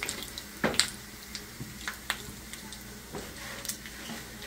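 Pieces of dried beef (carne seca) sizzling in oil in a stainless steel pan, stirred with a plastic slotted spatula that scrapes and clicks against the pan now and then, the sharpest click a little under a second in.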